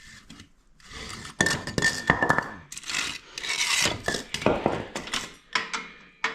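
Metal tools and parts clinking and clattering as they are handled and set down, in irregular knocks with a short metallic ring early on.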